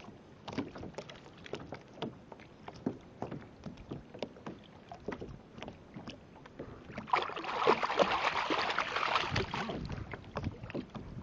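Small water slaps and ticks against a kayak's hull, then about seven seconds in a louder rush of splashing noise lasting about three seconds.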